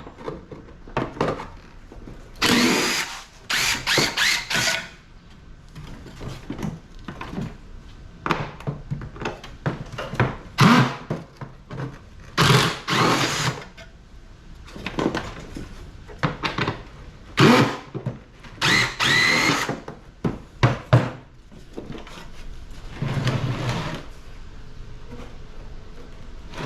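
Power drill with an extension bit backing screws out of an air-conditioner's sheet-metal casing, running in about seven short bursts with a whine that rises in pitch, between clatter of handling.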